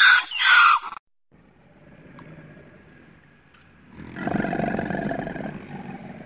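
A donkey braying, cut off about a second in. From about four seconds, a rough, drawn-out growling call from a young crocodilian lasts about two seconds and fades.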